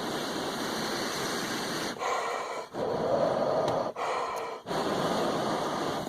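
A man blowing warm breath close to the microphone in several long exhalations with brief pauses between, thawing a bird's feet frozen to a metal fence.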